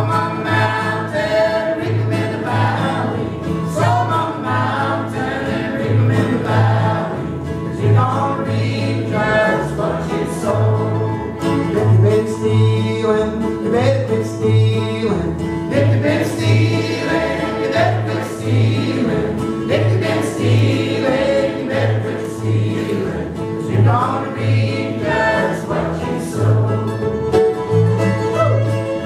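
Old-time string band playing a song live: fiddle, mandolin, guitar and upright bass, the bass thumping out a steady beat, with singing over the instruments.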